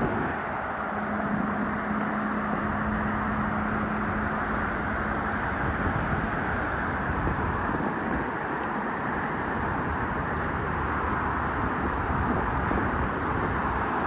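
Steady rush of busy road traffic, with a low engine hum standing out for the first few seconds.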